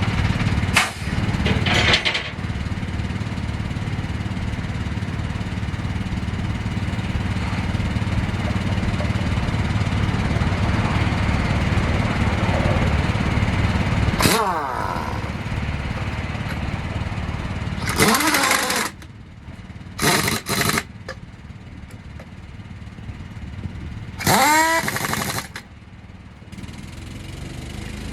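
Air impact wrench running in short bursts on heavy-truck wheel lug nuts, its pitch rising as it spins up, over a steady running engine that drops away about two-thirds of the way through.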